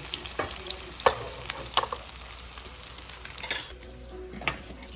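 Kimchi pancake batter frying in oil with a steady sizzle, broken by several sharp clicks of a cooking utensil; the sizzle dies down near the end.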